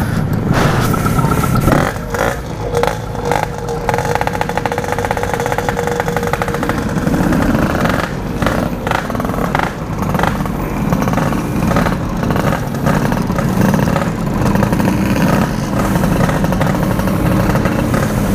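Yamaha RX-King two-stroke motorcycle engine running through its Standart Belek Packing Power exhaust, the revs rising and falling as it warms up.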